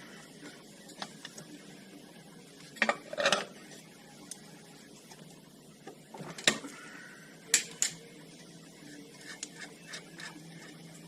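Hand tools and metal parts clinking and clanking during work on an ATV's front suspension, with a few sharp metal knocks: a cluster about three seconds in, the loudest about six and a half seconds in, and a pair just after.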